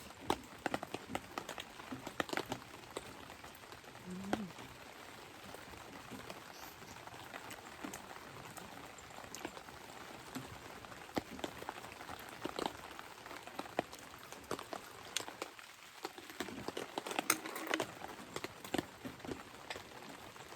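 Rain falling, with many irregular drops ticking sharply on a nearby surface and a few louder hits.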